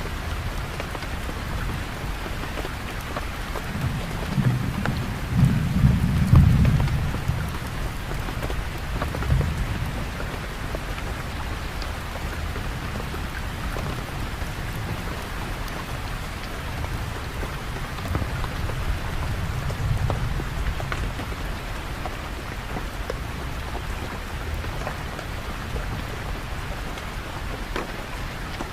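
Steady rain with scattered patters of drops, and low rolling thunder rumbling up about four seconds in, loudest around six seconds. It comes back more faintly near nine seconds and around twenty seconds.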